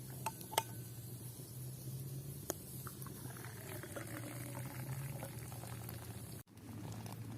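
Liquid sounds, as of water or tea bubbling or being poured, with a few light clicks in the first three seconds.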